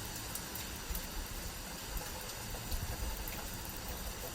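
Steady rain pouring down, with scattered drop ticks and low, gusty wind rumbles that swell near the middle.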